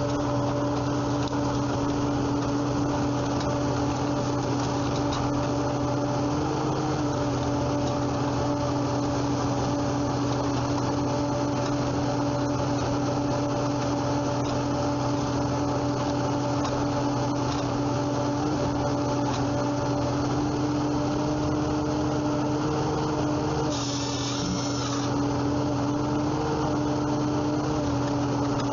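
Woodworking machinery running steadily with a constant hum, its pitch shifting slightly about six seconds in; a brief hiss comes near the end.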